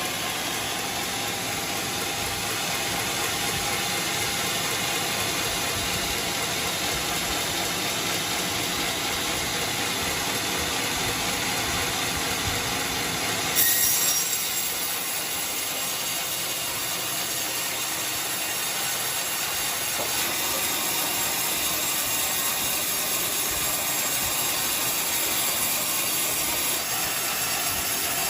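Sawmill machinery running steadily, a continuous mechanical clatter and hum, with a brief louder, hissing surge about 14 seconds in.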